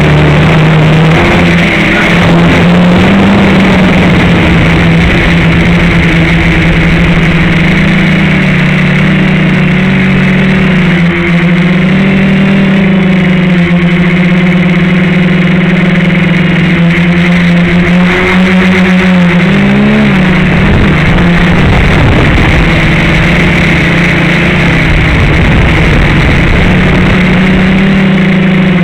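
FPV quadcopter's electric motors and propellers buzzing loudly, the pitch stepping and bending up and down as the throttle changes in flight.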